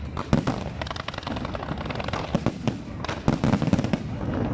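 Aerial fireworks going off: rapid sharp pops and crackling bursts over a steady low rumble, with a loud run of bangs a little past three seconds in.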